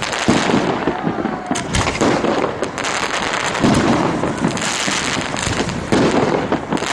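Fireworks display: many overlapping bangs in quick succession, a continuous barrage with no pause.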